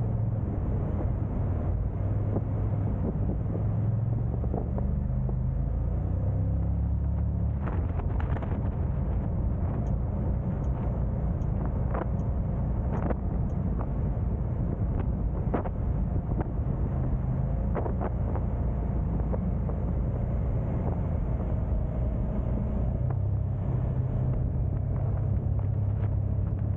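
Car driving: a steady low engine and road rumble, with a few short sharp clicks or knocks in the middle stretch.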